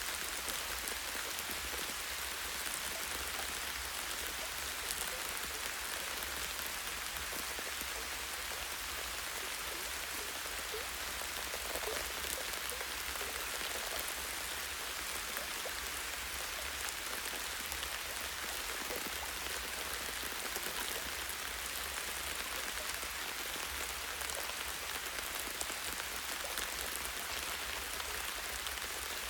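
Light, steady rain falling on tree branches and leaves, an even hiss with individual drops ticking through it.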